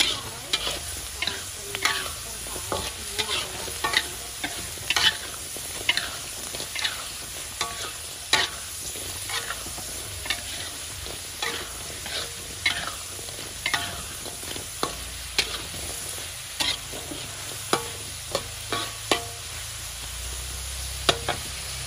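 Diced potatoes sizzling in hot oil in a wok, with a metal spatula scraping and clinking against the pan about once or twice a second as they are stirred.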